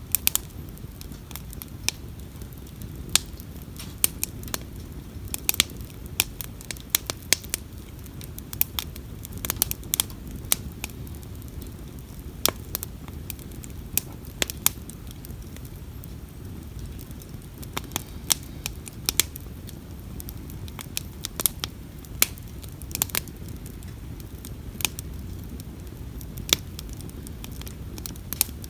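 Wood campfire crackling, with sharp irregular pops and snaps scattered throughout, over a low steady rumble.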